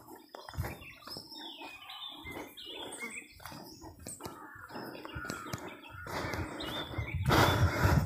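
Small birds chirping with many short notes that flick up and down in pitch, with a brief noisy burst near the end.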